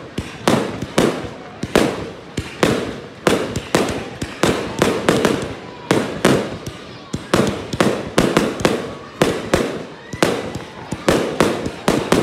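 Multi-shot consumer firework cake firing a rapid volley of shells: sharp bangs in quick succession, about two or three a second, each trailing off briefly before the next.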